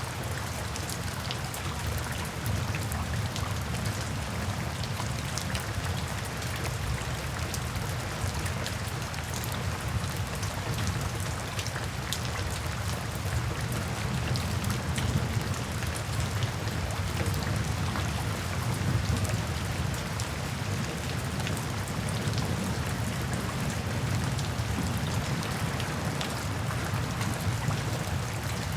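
Steady rain falling, with a dense patter of individual drops over a constant low rumble.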